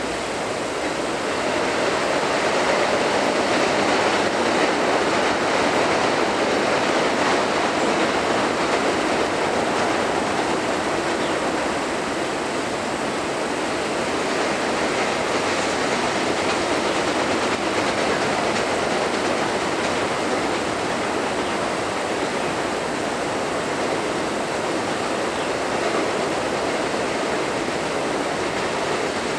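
Double-stack intermodal freight cars rolling across a steel trestle bridge, a steady rumble of wheels on rail that swells a little a few seconds in.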